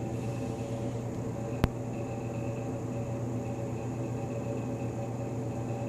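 Steady mechanical hum, like an indoor fan or appliance running, with a faint high whine over it. A single sharp click about a second and a half in.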